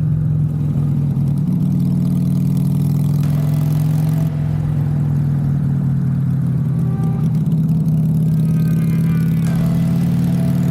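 Harley-Davidson V-twin motorcycle engine running steadily under way, its pitch stepping slightly twice.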